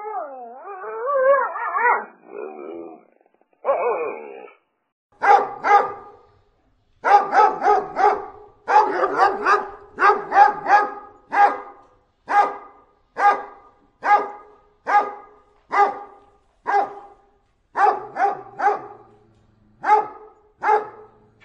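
A husky puppy howling and 'talking' in wavering, gliding calls. From about five seconds in, a Doberman barks in a guarding, warning manner: short sharp barks, often in quick twos and threes, repeated over and over.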